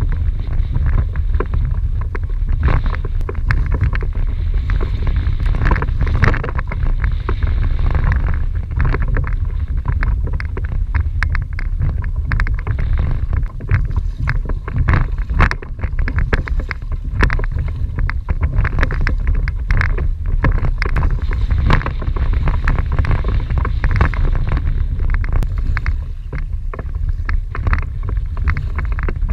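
Strong wind buffeting the microphone in a steady low rumble, with frequent short slaps and splashes of choppy water against a kayak.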